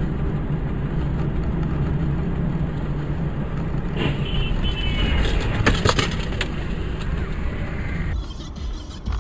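Car on the road, with steady engine and road noise. About four seconds in there is high squealing, and around six seconds several sharp knocks.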